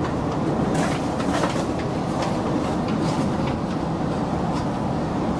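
Interior noise of a Chiltern Railways Class 165 diesel multiple unit moving slowly along a platform: a steady low rumble from the underfloor diesel and the wheels on the rails, heard inside the carriage, with a few sharp clicks from the wheels and bogies.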